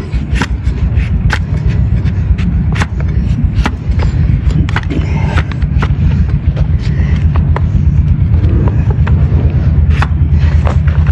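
Donkey hoof being trimmed: a string of sharp clicks and snaps as the hoof horn is cut, over a steady low rumble.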